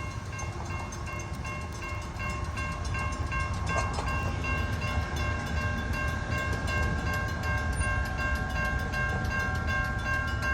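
Railroad grade-crossing bells ringing in quick, evenly repeated strikes over the low rumble of a passing train.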